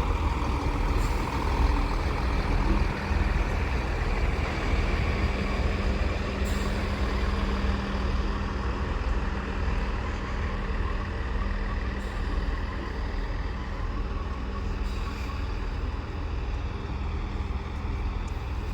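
Chiltern Railways class 165 diesel multiple unit running in to arrive at the station, a steady diesel drone over a low rumble, with a steady hum setting in about three seconds in.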